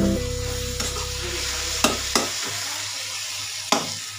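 Chopped tomatoes and masala sizzling in a metal kadhai as they fry, stirred with a steel spatula. The spatula knocks sharply against the pan twice, near the middle and near the end.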